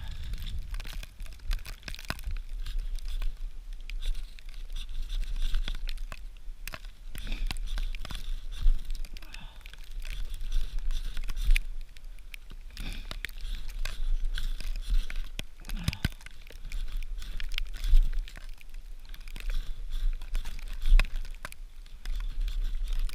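Wind buffeting the microphone in gusts, with many short scraping, crinkling and crunching sounds as dry tinder is handled in an attempt to get a fire lit in snow.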